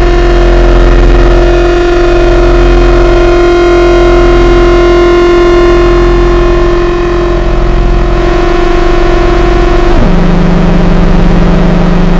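Nova Drone analog synthesizer sounding a loud, buzzy sustained drone of several held pitches over a steady low hum. About ten seconds in, the main pitch drops suddenly to a lower note.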